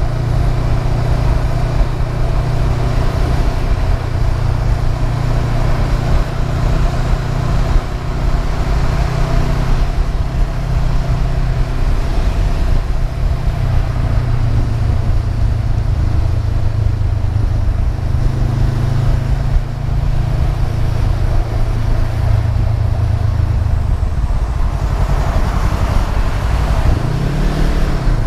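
Honda CB500F's parallel-twin engine running under way on a ride, with wind rushing over the microphone. The engine note holds fairly steady, then rises and falls briefly near the end.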